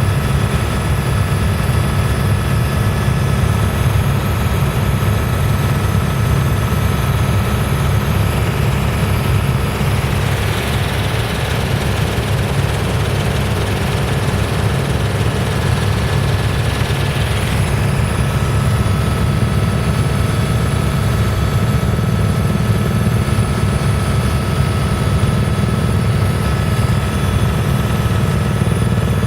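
Helicopter in flight heard from inside the cabin: a steady, loud low rotor and engine drone with faint thin high whining tones over it. From about ten seconds in until about eighteen seconds a hiss rises over the drone, then drops away.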